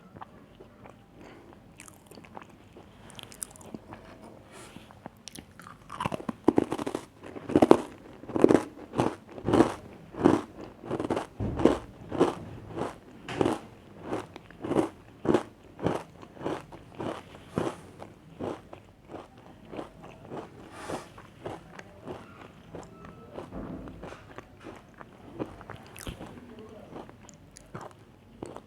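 Chocolate cookies being bitten and chewed close to the microphone. After a few quiet seconds comes a long run of loud rhythmic crunching chews, about two a second, which soften into quieter chewing near the end.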